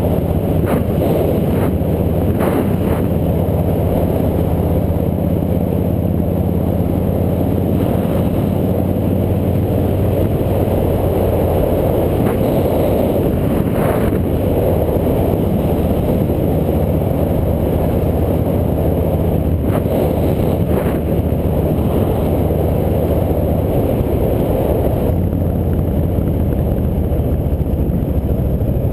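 Motorcycle engine running steadily during a ride, with a loud rush of wind on the helmet-camera microphone; the engine note shifts a little about 25 seconds in.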